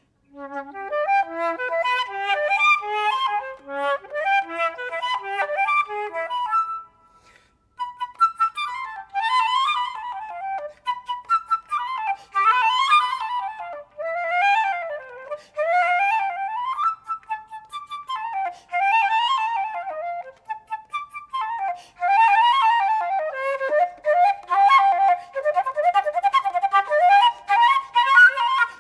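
Flute playing a classical piece: a phrase of separate notes, a short break about seven seconds in, then fast runs sweeping up and down.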